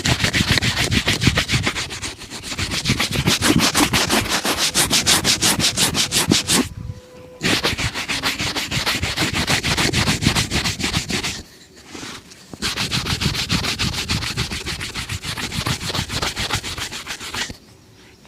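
Shoe brush buffing a polished shoe in rapid back-and-forth strokes, in three long spells with two short pauses between them.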